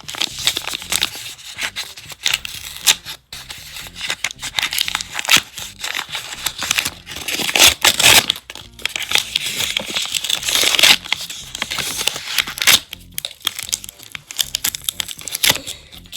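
A homemade blind bag being crinkled and torn open by hand: a long run of irregular rustling, crackling and ripping.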